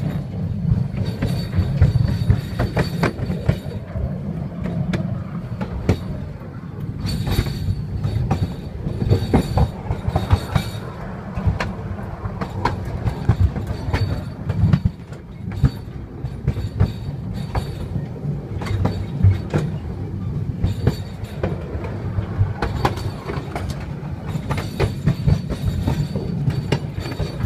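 Narrow-gauge electric train of the Borjomi–Bakuriani 'Kukushka' line running, heard from on board. A steady low rumble carries irregular clicks and clatter of the wheels on the rails, and a faint high whine comes and goes.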